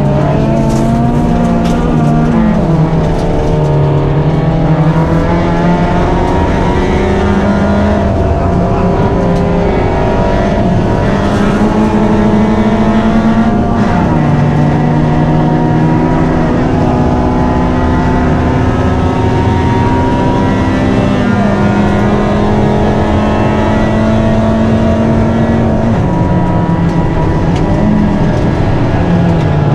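Fiat rally car's engine under hard acceleration on a gravel stage, heard from inside the cabin. The engine note climbs and then drops at each gear change, about five times, over steady gravel and road noise, with a few short knocks from the car.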